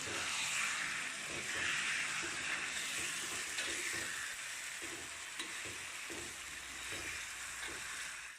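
Chicken pieces frying in oil on a tawa with onions and tomatoes, a steady sizzle, with irregular scrapes as the mixture is stirred and tossed around.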